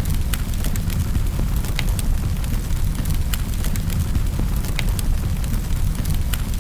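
Wood fire crackling in a fireplace: a steady low rumble of burning with irregular sharp pops and snaps, roughly one a second.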